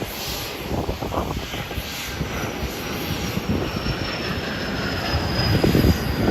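Jet airliner engines running as the plane taxis, with a faint high turbine whine that slowly falls in pitch. The low rumble grows louder toward the end.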